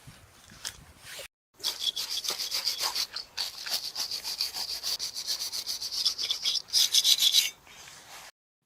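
Rapid, rhythmic back-and-forth rubbing strokes of a hand abrasive tool working a part, several strokes a second. They start just after a brief silent gap and stop shortly before the end.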